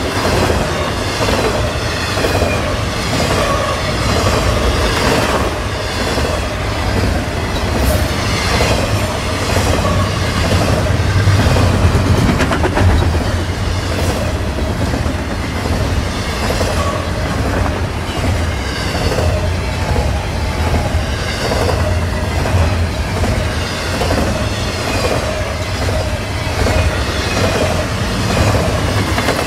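Canadian National double-stack intermodal freight train passing at speed: a steady rumble of loaded container cars with a regular clickety-clack of wheels over the rails.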